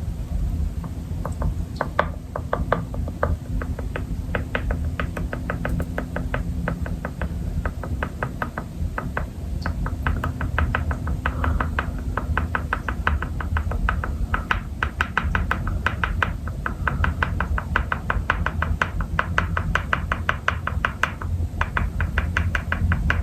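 Rapid, steady knocking and rattling, several strokes a second, as amino powder is mixed into a water bottle, with background music under it.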